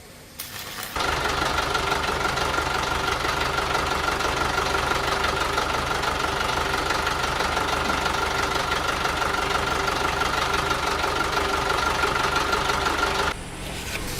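Heavy truck's engine running steadily, with a constant whine over its noise; it starts abruptly about a second in and cuts off sharply near the end.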